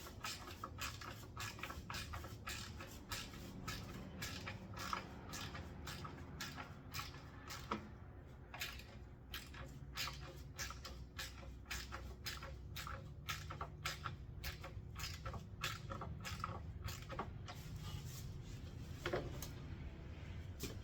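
Hand ratchet clicking steadily, about three clicks a second, as bolts under the engine are worked loose.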